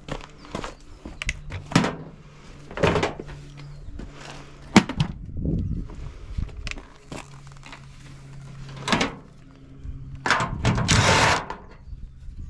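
Irregular metal knocks and clunks from a washing machine being taken apart, with a louder rattling scrape of about a second and a half near the end, over a faint steady low hum.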